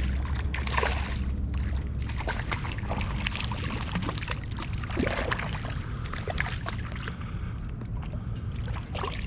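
Water splashing and sloshing around a fishing kayak, with many small clicks and knocks, while a hooked barracuda is handled alongside.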